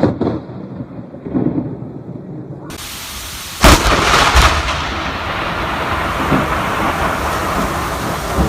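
Thunder from a close lightning strike: a sudden sharp crack about three and a half seconds in, the loudest moment, followed by loud rumbling thunder and a steady rush of rain.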